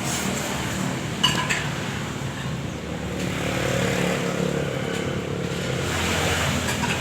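An engine running steadily, with a brief high-pitched sound about a second in.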